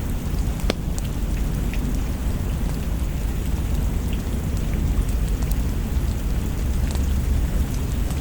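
Steady rain over a deep, continuous low rumble, with scattered single sharp clicks throughout.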